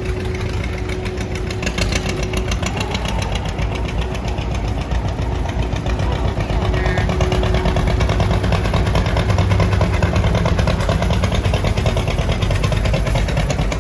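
Tractor engine running steadily, its firing pulses even, getting a little louder in the second half.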